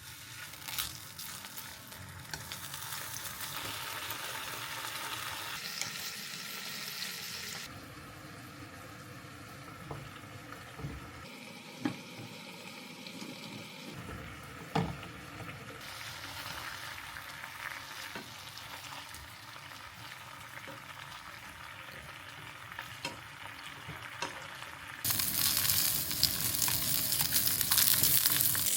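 Food sizzling as it fries in a pan, a steady hiss with a few sharp clicks. The sizzle turns much louder and brighter near the end.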